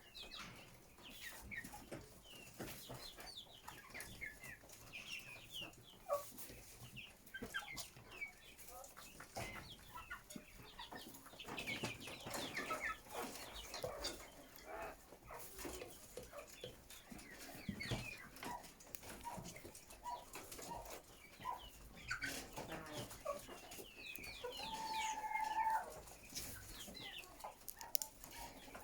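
A flock of chickens clucking and calling, many short overlapping calls throughout, with one longer, steadier call near the end.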